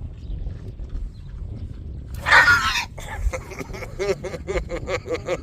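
A pig lets out one loud, harsh squeal about two seconds in, typical of a shock from an electric fence wire. It then keeps up a rapid series of short calls, about three a second.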